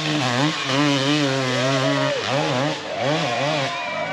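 Dirt bike engine revving hard. It holds a steady high pitch, dips briefly near the start, then from about halfway is blipped up and down in quick surges, a couple per second, as the rider works the throttle.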